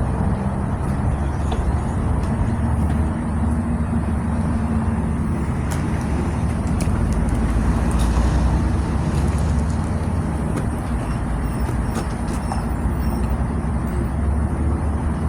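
Truck engine running steadily at a constant low pitch, with a few faint clicks over it.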